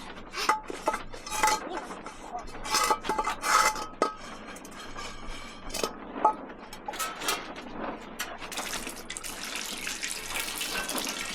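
Metal pots and dishes clinking and knocking, a few of the hits ringing briefly. About eight and a half seconds in, water starts pouring steadily.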